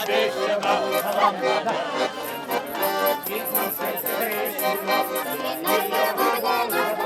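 Russian garmon (button accordion) playing a lively folk tune, with voices mixed in.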